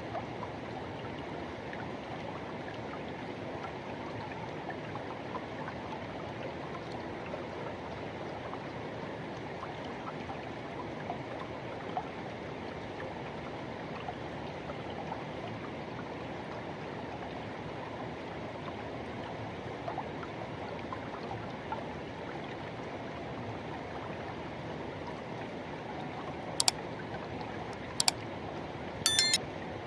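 Forest river water rushing steadily over stones. Near the end there are three short, sharp clicks, a second or so apart.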